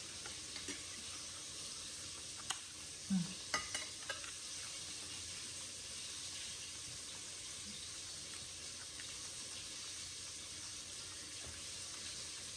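Steady sizzle of chicken frying in hot oil in the background, with a few sharp clicks of eating an egg roll in the first few seconds.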